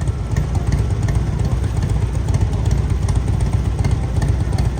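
Motorcycle engine running steadily with a deep, even rumble.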